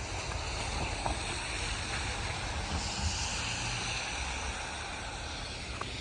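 Wind rumbling on the microphone over a steady rushing hiss that swells briefly about halfway through.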